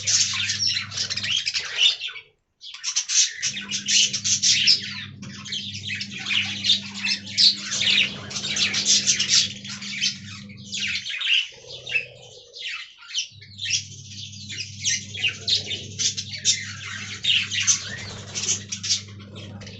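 Budgerigars chattering and warbling in a fast, continuous stream of squawks and chirps, with a brief break a couple of seconds in. A steady low hum lies under much of it.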